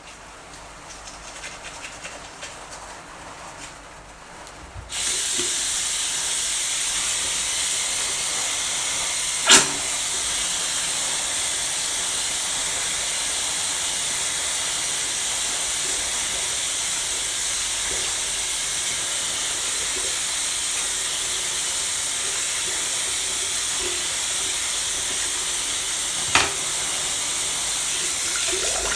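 A steady, even rush of running water that starts abruptly about five seconds in. Two brief sharp knocks come through it.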